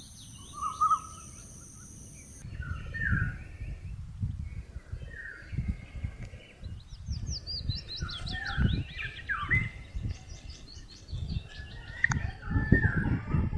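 Several wild birds chirping and singing: short chirps and quick runs of high sweeping notes, busiest in the middle and near the end, over an uneven low rumble.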